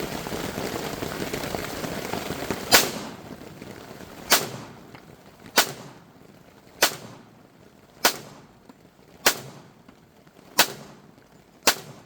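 Semi-automatic pistol fired eight times in slow, steady succession, about one shot every second and a quarter, each a sharp crack with a short echo. Rain hisses steadily before the first shot.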